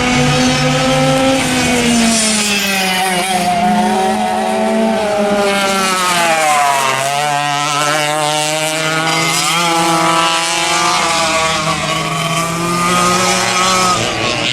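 Vintage racing kart engine running hard, its pitch falling for several seconds to a low about seven seconds in as it slows, then climbing back up and holding high, with other kart engines running alongside.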